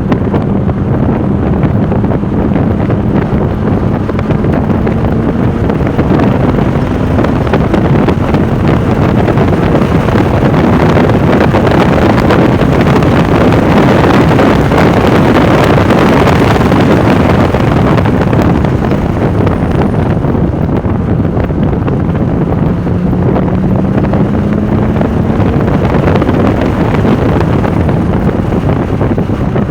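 Porsche 996 Turbo's twin-turbo flat-six driven at speed, nearly buried under heavy wind noise on the microphone. The engine note climbs slowly in the first several seconds and again near the end, and the wind is loudest through the middle.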